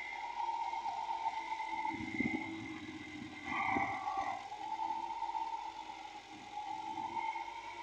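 Steady mechanical whine holding several fixed pitches, with a few low knocks about two seconds in and again around three and a half seconds in.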